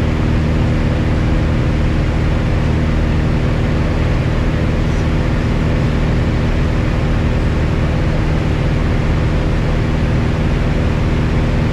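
Piper Cherokee 180's Lycoming O-360 four-cylinder engine and propeller running steadily in cruise on approach, a constant drone of several low tones over an even hiss, heard from inside the cabin. The engine is newly installed and still being broken in.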